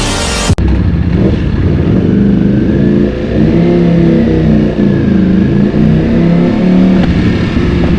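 Ducati Panigale V4's V4 engine running on the road, its pitch rising and falling as the throttle is worked. Electronic music cuts off suddenly about half a second in.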